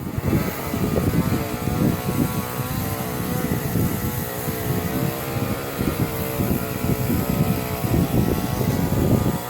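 An engine running steadily at a nearly constant pitch, with wind buffeting the microphone in irregular low gusts.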